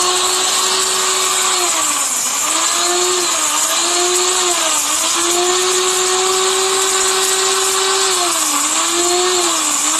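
A 1500-watt high-speed electric spice grinder runs steadily, grinding cinnamon bark. Its motor whine sags briefly in pitch about five times as the chunks load the blades, over a dense hiss of the pieces being pulverised.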